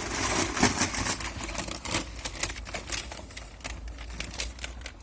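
Charcoal being poured from a bag into a washing-machine-drum grill, the lumps clattering in a rapid irregular run of clicks that thins out toward the end.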